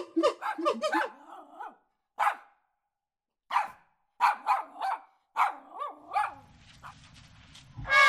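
A puppy barking: a quick run of short, high yapping barks that rise and fall in pitch. Before the barking, in the first second or so, chattering monkey calls trail off.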